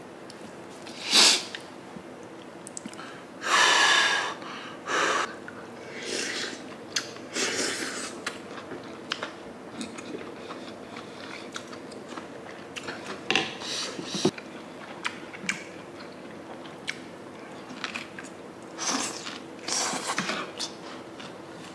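Close-miked chewing and eating of sundae gukbap, Korean blood-sausage and rice soup: irregular wet mouth sounds and bites, a few of them much louder.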